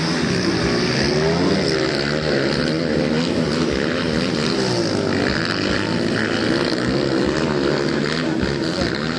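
Several motocross motorcycle engines revving during a race, their pitch rising and falling over and over as they overlap.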